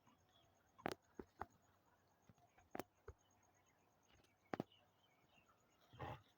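Mostly near silence, broken by a handful of sharp clicks or knocks, and a short rustle-like noise near the end.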